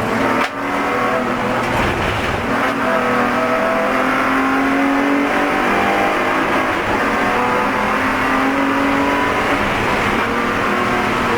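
Spec E46 BMW race car's straight-six engine running hard on track, its pitch climbing and dropping through gear changes, with a brief lift about half a second in.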